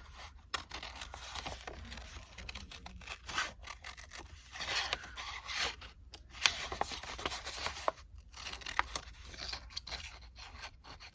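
Paper rustling and scraping as sheets are handled and worked on a tabletop, with irregular short spells of noise and a few sharp clicks.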